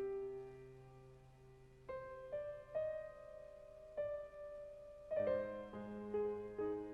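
Slow, soft piano music: single notes and chords struck every second or two and left to ring.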